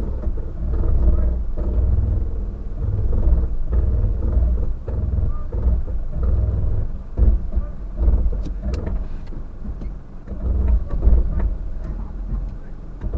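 4x4 vehicle driving over a rough gravel track: a low engine and tyre rumble that swells and dips, with a few sharp knocks and rattles about eight to nine seconds in.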